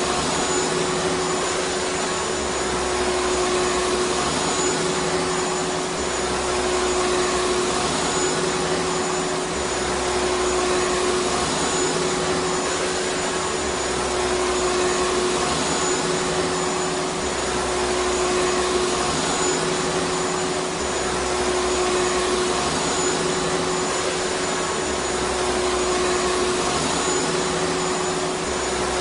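Vacuum cleaner running steadily: a constant motor whine over a dense rushing of air, with a low hum that swells and fades every few seconds.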